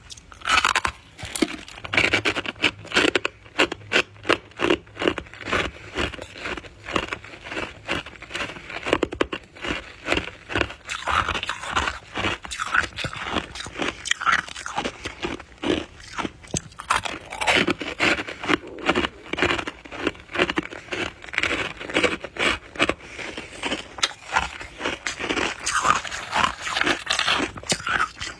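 Close-up crunching and chewing of soft white ice (freezer frost), with rapid, irregular crunches and scraping that run on without a break.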